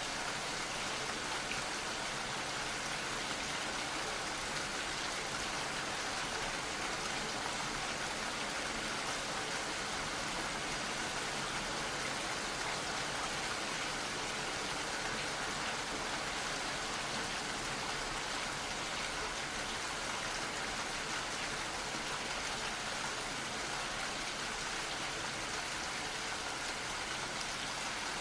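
Gentle, steady rainfall: an even hiss of drops with no single louder drop or gust.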